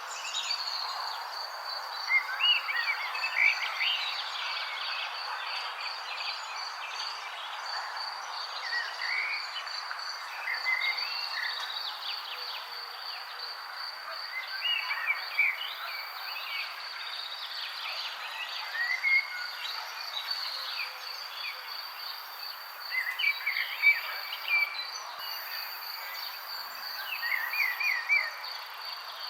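Wild songbirds chirping in short, scattered bursts of quick gliding notes over a steady, finely pulsed high trill and a constant background hiss.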